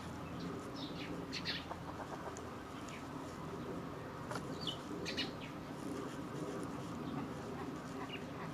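Flock of Eurasian coots at the water's edge giving short, sharp high calls every second or so, one a brief falling note, over a steady low background rumble.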